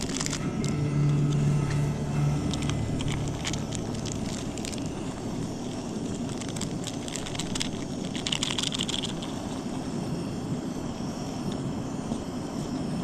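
Backpacking stove burning steadily under a pot of water, with a few small clicks and a brief brighter rush about eight seconds in.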